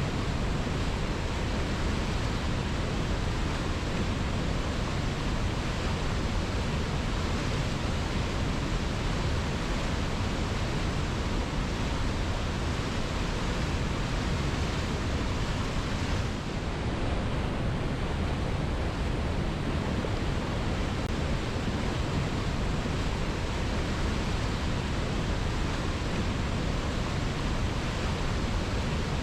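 Waterfall rushing steadily, an even full-range wash of water noise, with a brief dip in level a little past halfway.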